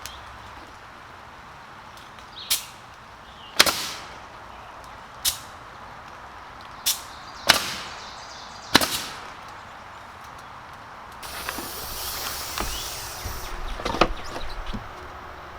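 Nails being driven while putting up cedar siding: six sharp, unevenly spaced strikes, then from about eleven seconds in a hiss of about two seconds with a few lighter knocks.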